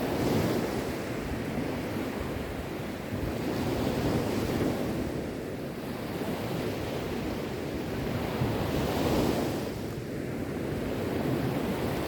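Sea waves surging, the rush swelling and fading about every four to five seconds.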